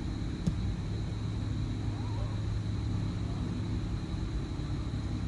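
Steady low outdoor rumble, with a single click about half a second in and a faint distant voice calling about two seconds in.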